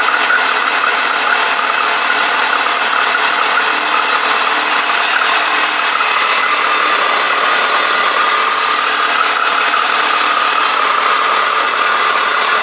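Chevrolet Niva four-cylinder petrol engine idling steadily, just started, heard up close in the open engine bay. It is running to drive an air lock out of the cooling system after a coolant pre-heater was fitted.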